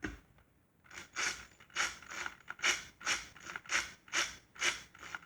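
Ryobi handheld impact wrench with a 10 mm socket, triggered in short, slow bursts about twice a second to snug the bolts on an aluminium transmission cover.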